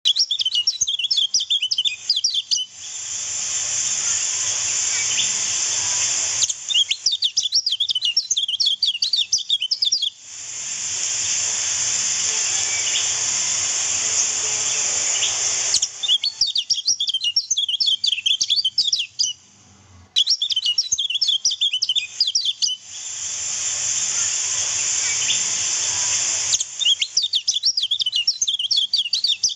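Kecial kuning (a white-eye) singing in fast, dense runs of high chirps and trills, in several bursts of a few seconds each. Between the bursts a steady rushing hiss like running river water takes over.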